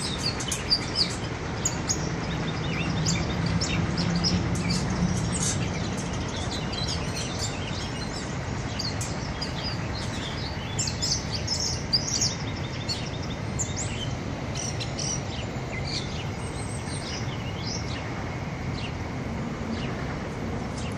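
Small birds chirping and calling in many short high notes, coming thick and fast in places, over a steady low rumble.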